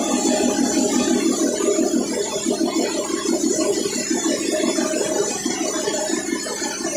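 Machinery running steadily with a fast, even pulsing rattle and a low hum, easing slightly near the end.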